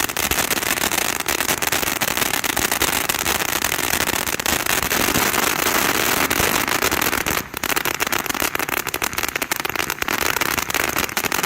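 Winda 'Bad Cactus' fountain firework spraying sparks with dense, continuous crackling, dipping briefly about seven and a half seconds in.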